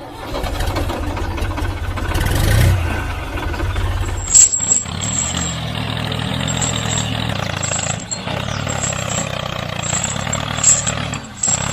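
A tractor engine running steadily, with a sharp knock about four and a half seconds in.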